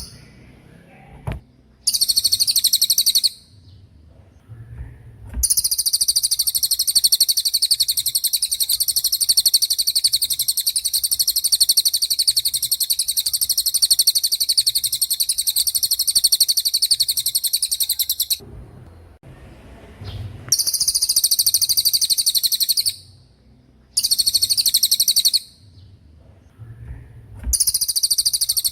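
Cililin songbird singing its 'tembakan' phrases: very high, fast rattling trills. They come in bursts: a short one about two seconds in, a long unbroken one of about 13 seconds, then shorter ones with brief pauses between.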